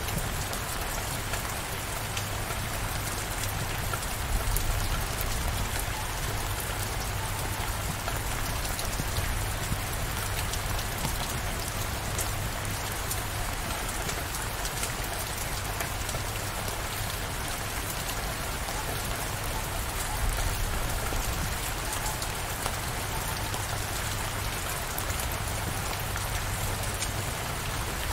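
Steady rain falling, with a low rumble underneath that swells briefly about four seconds in and again about twenty seconds in.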